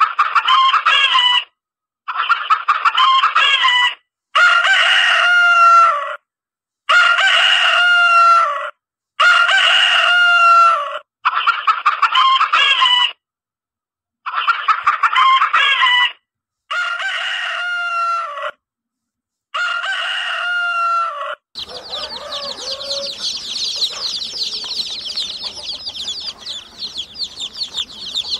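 A rooster crowing nine times, each crow about two seconds long with a falling end, separated by spells of dead silence. About three-quarters of the way in, a dense, continuous high peeping of young chicks takes over.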